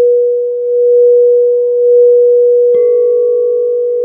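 A singing bowl rings with a steady, pure tone that swells and fades slowly. Almost three seconds in, a second bowl is struck and adds a higher ringing tone over it.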